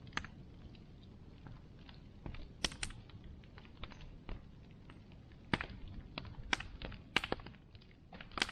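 Bonfire crackling: irregular sharp pops and snaps, bunched around the middle and near the end, over a steady low rush of the burning fire.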